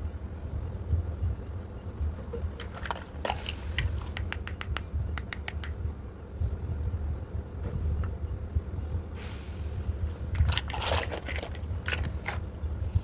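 Small plastic toy parts being handled: scattered clicks and scrapes in short clusters, with a brief rustle about nine seconds in, over a steady low hum.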